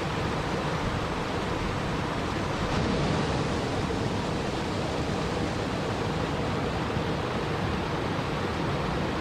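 Steady rushing water noise, an even hiss with no distinct events, swelling slightly about three seconds in.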